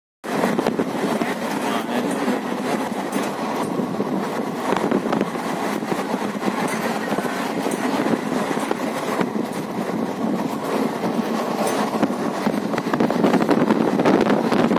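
Passenger train running at speed, heard from inside the coach at an open barred window: a steady rumble and rush of wheel and track noise, with scattered sharp clicks from the wheels and rails.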